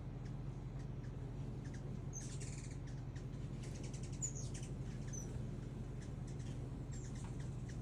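Small birds chirping, short high chirps scattered through, over a steady low hum.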